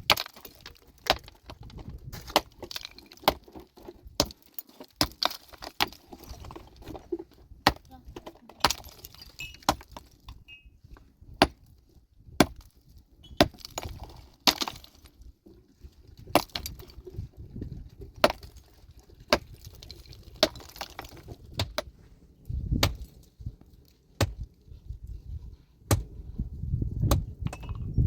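Metal tools, such as pickaxes, striking and breaking rock, in a long run of sharp, ringing blows about one to two a second at an uneven pace. Near the end a low rumble rises under the strikes.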